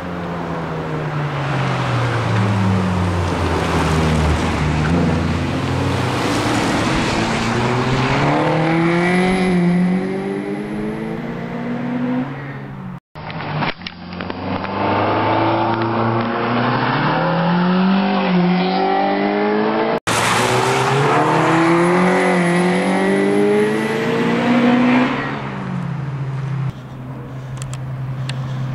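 Several fourth-generation Honda Accords' four-cylinder engines revving hard as the cars accelerate one after another through a bend, the pitch climbing and dropping with each gear change as each car passes. The sound breaks off twice where the shots change.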